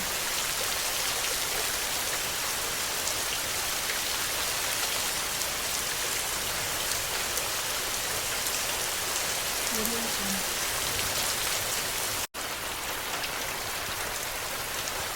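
Steady rain falling on a hard surface: a dense, even hiss of many drops. About twelve seconds in it cuts out for a split second, then carries on slightly quieter.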